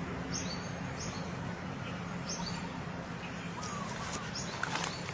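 Bird chirping in short high calls, a few times over a steady background hum.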